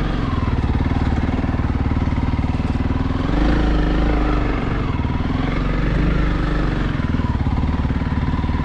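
Honda CRF300L single-cylinder four-stroke dirt bike engine running steadily, rising in pitch a little past three seconds in and easing back down about two seconds later.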